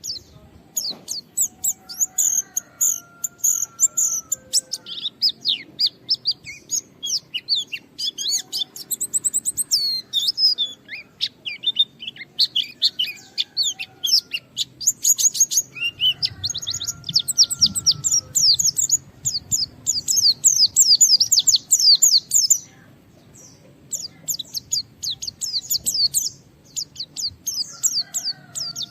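White-eye (pleci) singing a fast, continuous chattering song of high chirps and trills, with a brief pause about 23 seconds in. Fainter, lower whistled notes come in now and then.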